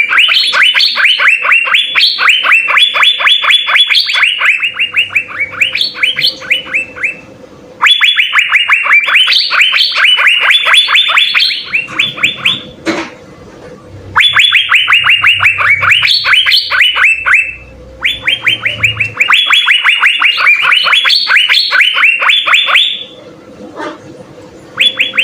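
Asian fairy-bluebird (cucak biru) singing rapid runs of short, quickly repeated notes. The song comes in four long bouts with short pauses between them, and a brief burst near the end.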